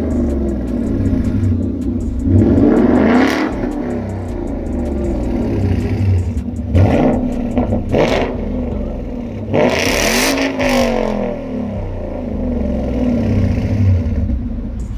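Ford Mustang GT's 5.0 V8 through an MBRP Race exhaust, revved in several sharp blips from idle, the last one longer and falling back to idle; way too loud.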